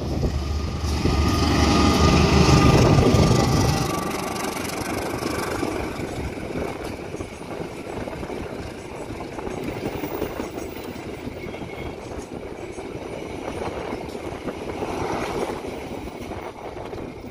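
Diesel locomotive hauling a passenger train passes close by: its engine and a deep rumble are loudest in the first four seconds, then the coaches roll past with a steady noise of wheels on rails.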